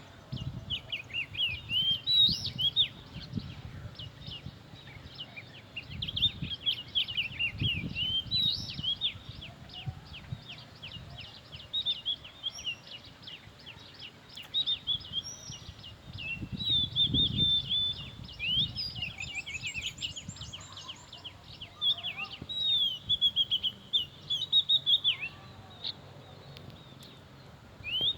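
Oriental magpie-robin singing a long, varied song of quick whistled notes, slurs and trills, pausing briefly near the end. Low rumbles come and go underneath a few times.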